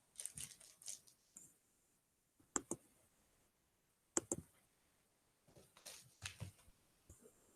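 Faint scattered clicks and light handling noises, in small clusters of one or two quick ticks at a time, in a quiet small room.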